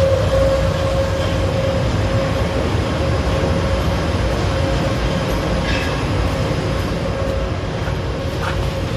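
Heat pump sludge dryer running: a steady low rumble with a constant mid-pitched hum, and a few faint clicks.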